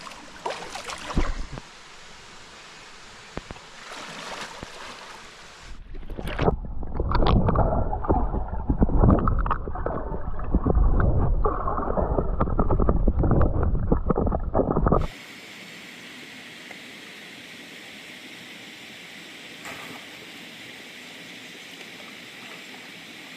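Mountain stream water running. About six seconds in the sound turns suddenly muffled, with loud rushing and bubbling, as the camera's microphone goes underwater. About nine seconds later this cuts off abruptly to a steady, quieter hiss.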